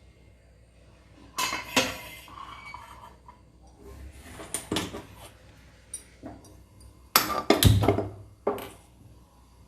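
Metal cookware being handled: irregular clanks, knocks and scrapes of pots and utensils, with the loudest clatters about a second and a half in and again around seven to eight seconds in.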